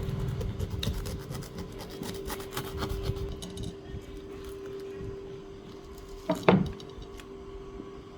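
Knife cutting and prying through a durian's tough spiky husk: a run of scraping, rasping strokes, then one loud knock about two-thirds of the way through.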